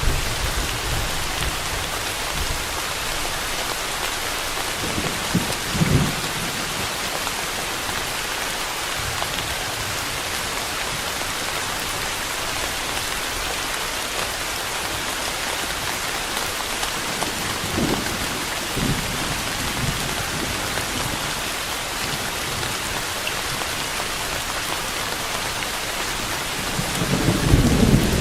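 Steady rain with a few low rumbles of thunder, the longest and strongest near the end.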